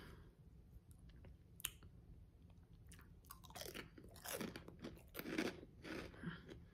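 Crunchy chewing of a Funyuns onion-flavoured ring snack: quiet at first, then a run of irregular crunches starting about halfway through.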